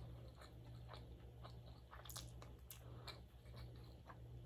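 Faint close-miked chewing of a mouthful of sushi roll: soft, irregular clicks and small crunches, over a low steady hum.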